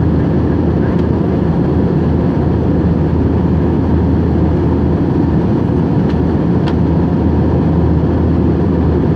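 Steady, unbroken jet noise of an Airbus A321-231 in flight, its IAE V2500 turbofans running with airflow, deep and even with no change in pitch.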